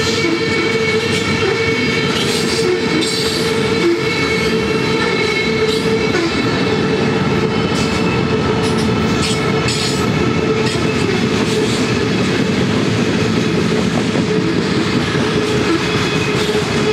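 Freight train of covered hopper cars rolling past, its wheels clicking over the rails with a steady high-pitched ringing squeal, while the mid-train distributed-power locomotives pass in the first half.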